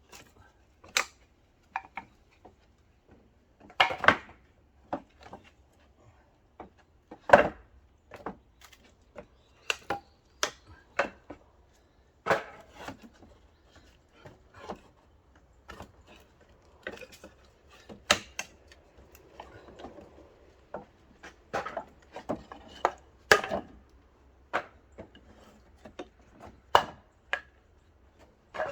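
Oak firewood being split with an axe: a string of sharp wooden knocks and clatters at irregular intervals, the loudest about four and seven seconds in.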